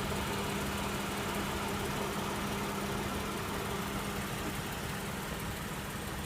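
Steady engine-like hum with one constant tone, even and unchanging, like a vehicle idling.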